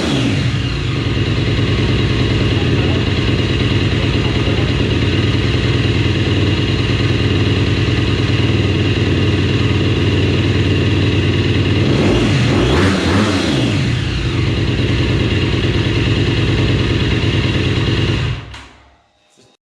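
KTM SX-F 250 single-cylinder four-stroke motocross engine idling steadily through its exhaust, with one short rev about two-thirds of the way in. Near the end the sound falls away to nothing over about a second.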